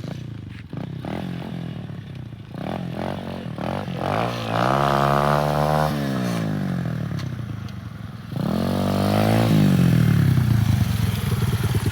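Dirt bike engine revving hard as it accelerates: the revs climb, hold briefly and drop off, then climb and drop again later on.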